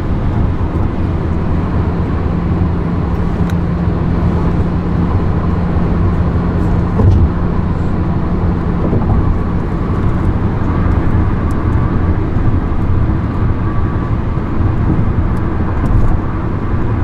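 Steady low rumble of a car on the move: road and engine noise with a faint steady hum. There is one short knock about seven seconds in.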